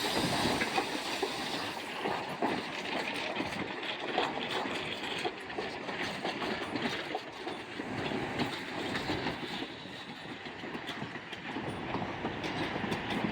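Railroad cars of the 1880 Train rolling past, their wheels clicking and clattering over the rail joints with a steady rumble.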